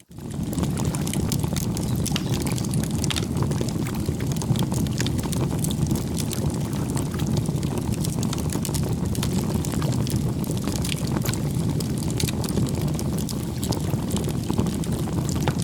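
Campfire burning: a steady low rushing of the flames with frequent sharp crackles and pops of the wood. The sound cuts out for a moment right at the start, then comes back.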